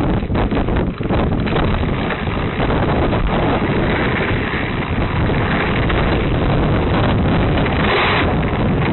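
Wind buffeting the microphone of a camera carried on a moving bicycle, a loud steady rushing noise, with a brief brighter hiss about eight seconds in.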